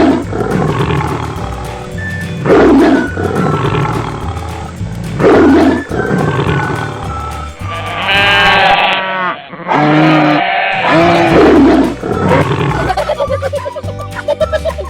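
Animal roar sound effects repeating about every two and a half seconds over background music with a steady bass line, with a longer pitched call in the middle.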